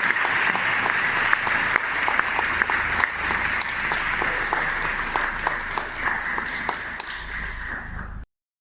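Audience applause, a dense patter of many hands clapping, that cuts off abruptly near the end.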